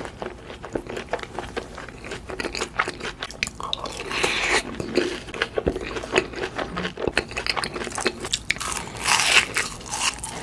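Crunchy food being bitten and chewed: a dense run of crisp crackling crunches, louder about four seconds in and again near the end.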